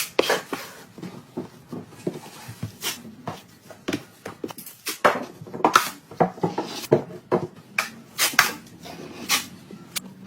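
Hand tools working on drywall: short, irregular scrapes and knocks, a few a second.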